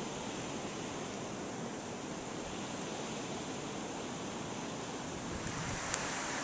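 Blizzard wind blowing steadily, with a stronger gust building about five seconds in. A single sharp click near the end.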